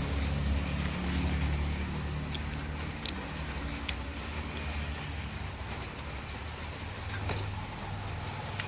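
A steady, low mechanical hum that comes in abruptly at the start, its higher part fading after a few seconds while a deep hum carries on.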